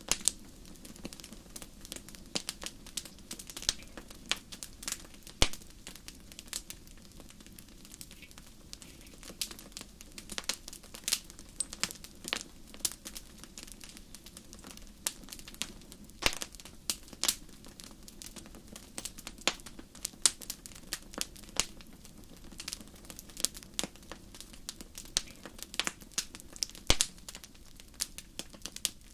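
Wood fire in a fireplace crackling, with many irregular sharp pops, a few much louder than the rest, over a low steady rumble.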